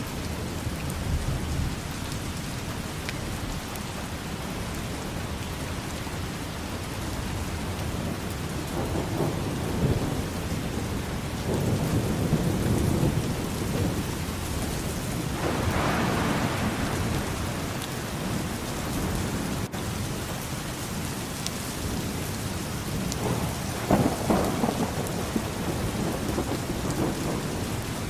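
Rain falling steadily, with low thunder rolling in several times, each roll swelling and fading; the loudest roll comes about three-quarters of the way through.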